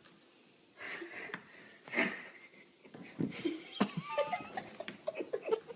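A white-tailed deer fawn's hooves tapping and scrabbling on a hardwood floor as its legs slide out from under it. Breathy, wheezing laughter comes in the first seconds, and short voice-like squeaks follow near the end.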